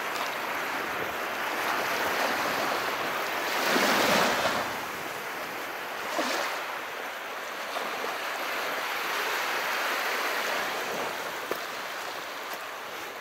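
Calm sea waves washing in steadily. One wave surges louder about four seconds in, with a smaller one about two seconds later.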